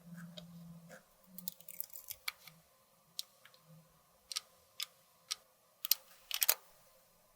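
Small sharp clicks and taps from cosmetic containers and tools being handled, about a dozen of them, spaced irregularly and loudest near the end. A faint low hum is heard in the first second.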